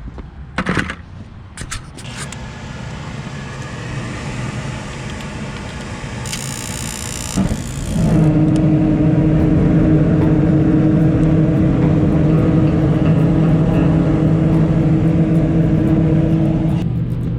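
A few knocks, then a brief hiss, then a machine starts about eight seconds in and runs with a loud, steady low hum until shortly before the end.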